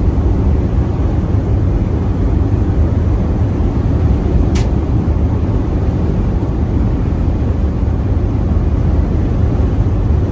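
Volkswagen Vanagon driving along, heard from inside the cab: a steady low rumble of engine and road noise. A single sharp click comes about four and a half seconds in.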